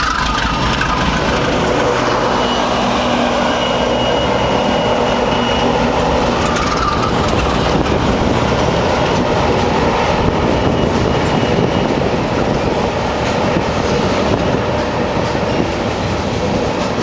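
BNSF diesel-electric locomotives rolling past, loud and steady. The engines' drone is clearest in the first few seconds, then gives way to the wheels clattering over the rails.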